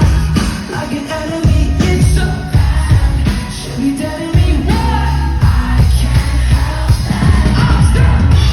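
Live pop-rock band playing with a male lead singer, heavy bass and drum hits, loud.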